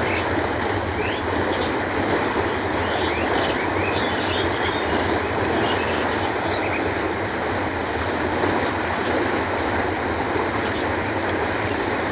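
Canal water flowing with a steady rush. Short, high bird chirps are scattered over it.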